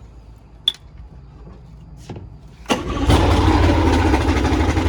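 An engine starts up suddenly just under three seconds in and runs loudly, after a couple of sharp clicks.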